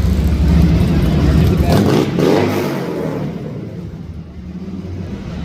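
Motorcycle engine running, revved once about two seconds in, its pitch rising and falling back.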